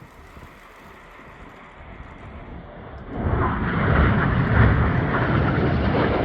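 Red Arrows BAE Hawk jets passing low: a quiet start, then the jet roar swells sharply about three seconds in and stays loud.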